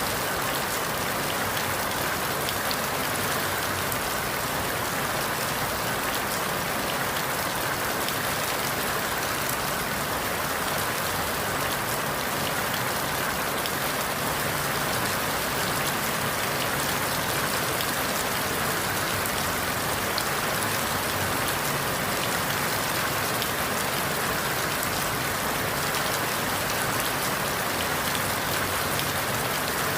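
Steady rain falling through forest leaves, an even dense hiss with countless fine drop patters.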